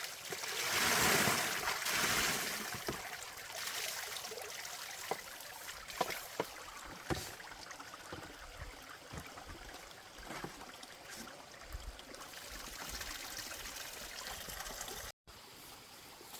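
Water trickling and running steadily, louder in the first couple of seconds, with a few sharp knocks about five to seven seconds in.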